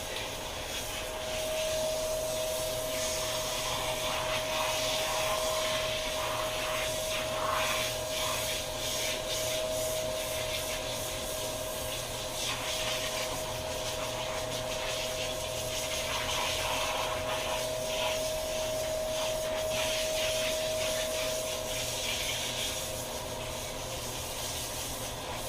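Handheld shower head spraying water over a dog's wet fur, a steady hiss of spray with a steady tone held underneath.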